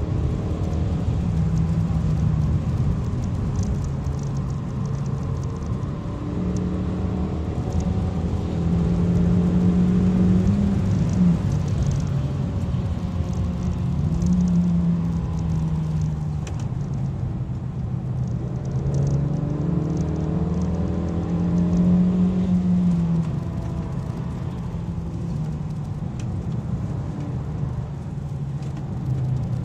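Kia cee'd GT's turbocharged four-cylinder engine heard from inside the cabin at speed, its pitch rising under acceleration and falling again several times, with a sharp drop at a gear change about eleven seconds in, over a steady tyre and road rumble.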